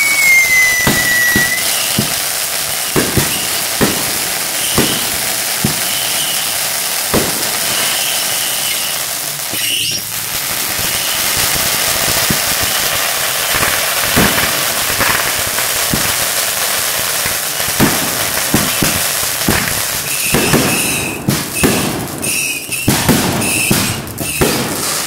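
Fireworks firing close by: a steady crackling hiss broken by many sharp bangs, with a falling whistle at the start and a denser barrage of bangs near the end.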